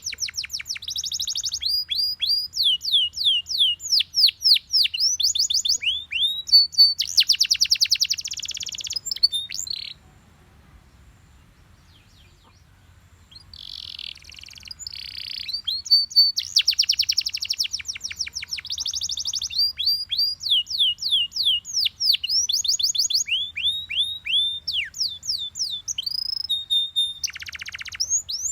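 Belgian canary singing: rapid high trills alternating with runs of quick, falling whistled notes. The song breaks off for a few seconds about a third of the way in, then starts again.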